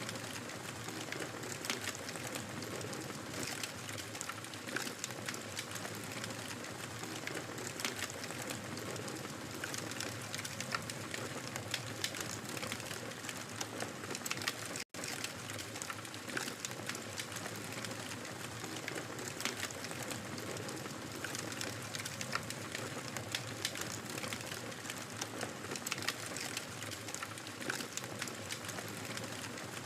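Wood fire burning in a fireplace, crackling continuously with a steady hiss and many irregular sharp pops. It cuts out for a split second about halfway through.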